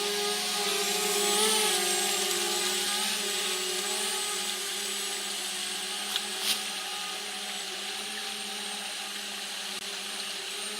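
DJI Spark drone's propellers humming steadily in flight, the pitch wobbling briefly about a second and a half in. Two short clicks a little past the middle.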